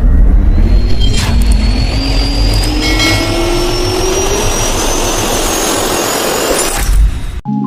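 Jet airliner engines spooling up under power: a loud, heavy rumble with a whine that rises steadily in pitch. It cuts off abruptly near the end, giving way to soft mallet music.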